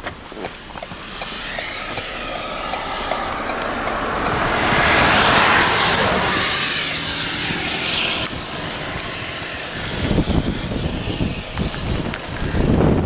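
A vehicle passing close by on the highway, its tyre and engine noise swelling to a peak about halfway through and then fading away. Low rumbling follows near the end.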